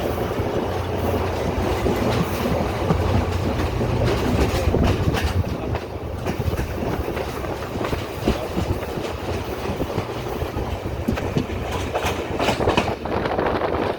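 Sri Lanka Railways Class S13 diesel multiple unit running on the line, a low steady engine drone with wheels clicking and knocking over rail joints. The drone is strongest in the first half.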